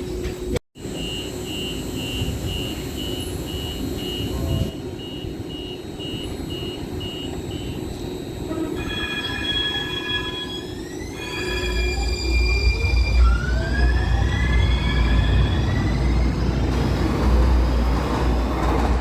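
Muni Metro Siemens light-rail car with its door-closing beeps sounding about twice a second for several seconds. Then stepped electric tones and a rising whine from the traction motors as the car accelerates away, with a growing low rumble from the wheels.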